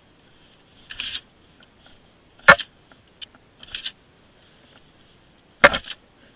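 A handful of short, sharp clicks and knocks, two of them louder (about two and a half seconds in and near the end), over a faint steady high hiss.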